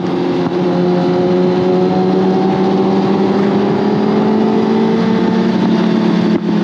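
Suzuki GSX-R1000R inline-four engine pulling under way, its pitch slowly rising as the bike gains speed, with a short break near the end.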